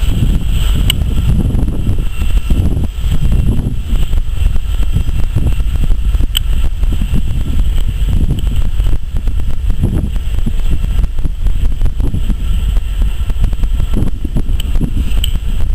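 Empty coal hopper cars rolling past at the crossing: a continuous low rumble of wheels on rail with irregular clicks and clanks, mixed with wind on the microphone.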